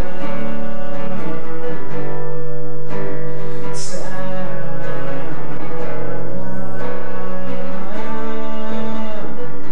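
Live song accompaniment: a guitar playing an instrumental passage between sung verses, with long held low notes and the chord changing every second or two.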